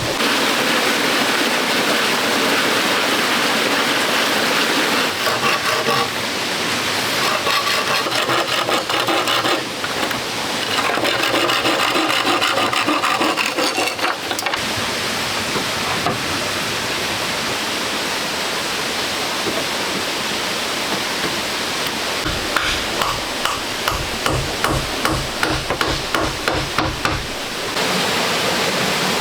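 Runs of quick, repeated knocking and scraping from hand work, over the steady rush of running water. The deeper knocking comes late.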